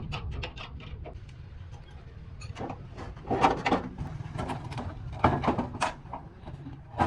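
Irregular knocks, clanks and scraping from repair work on a tractor's broken rear axle, in two busier clusters. A low hum underneath fades out about a second in.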